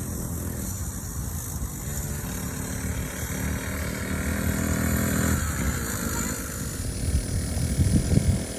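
SYX Moto 50cc kids' dirt bike engine running steadily. Its pitch shifts about five seconds in, and there is a louder, rougher patch near the end.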